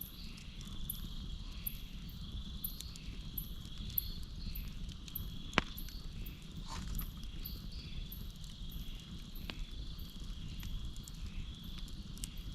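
Campfire burning with a low steady rumble and three sharp crackling pops, the loudest about halfway through. Crickets and other insects chirp steadily throughout, with a high chirp repeating about twice a second.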